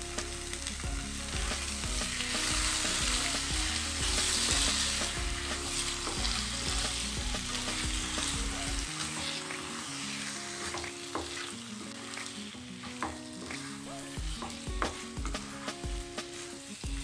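Chicken liver pieces sizzling in hot oil with fried onions and spices in a non-stick wok, stirred with a wooden spatula. The sizzle is strongest in the first few seconds; in the second half the spatula scrapes and taps against the pan in quick strokes.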